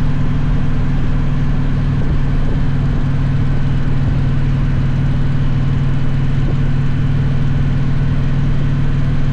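Victory motorcycle's V-twin engine running at a steady pitch and level, with a constant rush of air noise.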